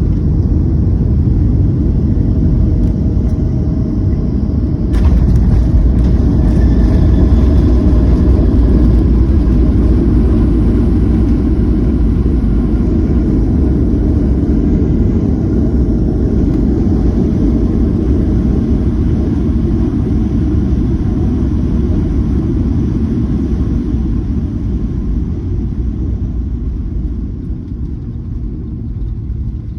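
Airliner cabin rumble during landing. About five seconds in, the noise jumps suddenly louder as the wheels touch down and the jet brakes on the runway. It then slowly dies away as the plane slows.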